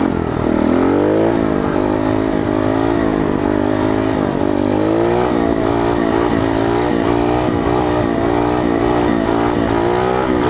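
Coolster 125 pit bike's single-cylinder four-stroke engine pulling under load while ridden, its pitch rising and falling again and again as the throttle is worked to hold a wheelie.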